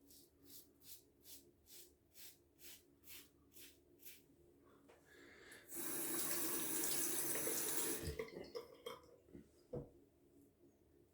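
Safety razor strokes scraping through two days of stubble, about two short scratchy strokes a second, on a well-used Astra Green blade that feels due for changing. A tap then runs briefly for rinsing, the loudest part, followed by a few small clicks and one sharp knock.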